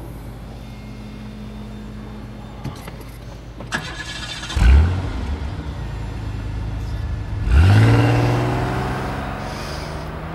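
Car engine starting, heard from inside the cabin, about halfway in, then revving up about three seconds later and slowly dying away. Two light clicks come before it.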